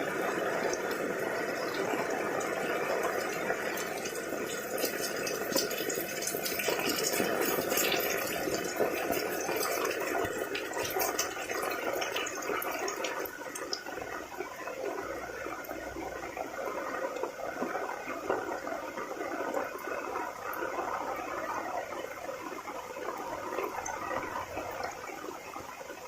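Heavy rain falling, a steady wash of water with many sharp close drop hits through the first half, easing slightly toward the end.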